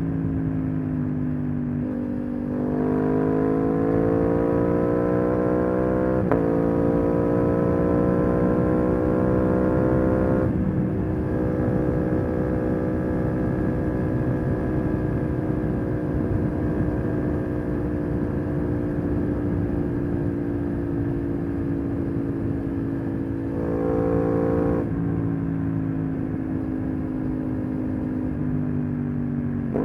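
Aprilia RS 660 parallel-twin engine, running through an SC-Project SC1-R exhaust, pulling under throttle. The revs climb from about two seconds in and drop sharply at two quick upshifts, about six and ten seconds in, with a click at the first. They then hold nearly steady for over ten seconds and ease down a little near the end, over a steady rush of wind noise.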